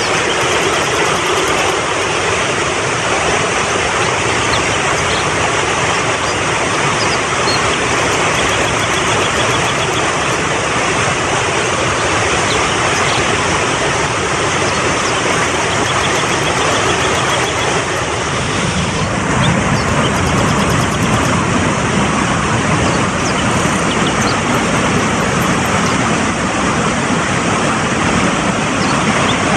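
Fast-flowing mountain stream rushing steadily over rocks. A little past halfway the rush takes on a deeper, fuller low rumble.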